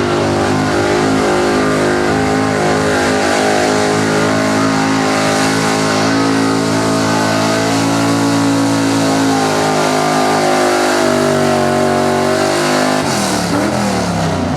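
Small-block Chevrolet V8 in a 1982 Chevrolet 4x4 pickup held at high revs under load while pulling the sled. The revs drop about thirteen seconds in as the pull ends.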